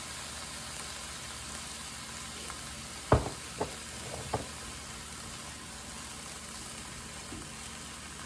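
Cauliflower fried rice sizzling steadily in a skillet as soy sauce is poured in. A sharp knock comes about three seconds in, with two lighter knocks soon after, and a spatula stirs the rice near the end.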